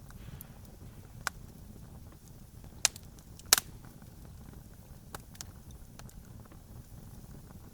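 Campfire crackling: a handful of sharp pops and snaps of burning wood over a low, steady rumble of the fire. The loudest pop comes about three and a half seconds in.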